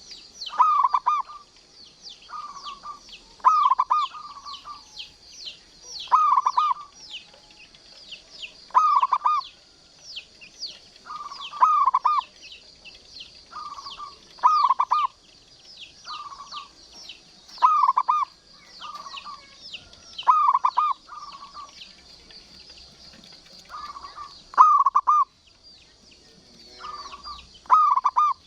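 Zebra dove (perkutut) cooing: short phrases of a few rolling notes, repeated about every two to three seconds, over continuous high-pitched chirping in the background.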